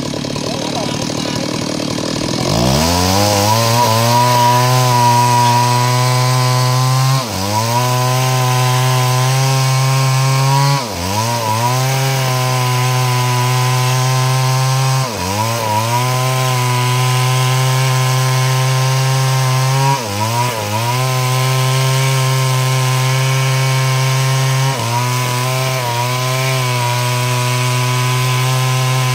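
Stihl two-stroke chainsaw ripping lengthwise through a log to make planks. The engine rises to high speed about two and a half seconds in and runs steadily, its pitch dipping briefly and recovering about every four to five seconds.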